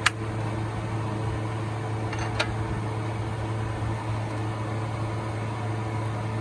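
A steady mechanical hum, with two sharp clicks: one at the very start and one about two and a half seconds in.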